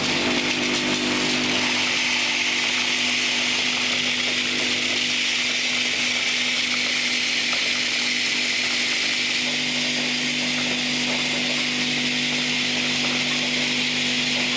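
Machinery running steadily, a constant hum under a strong hiss. A lower hum joins about two-thirds of the way through.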